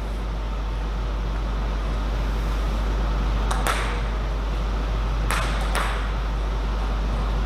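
Celluloid-type table tennis ball clicking sharply against bat and table, a quick pair about halfway through and two more a little later, over a steady low hum.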